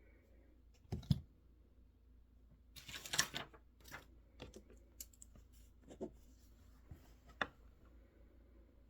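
Scattered desk-work sounds: a soft thump about a second in, a brief rustle around three seconds in, then a handful of separate clicks and taps, like occasional keystrokes or a mouse, rather than continuous typing.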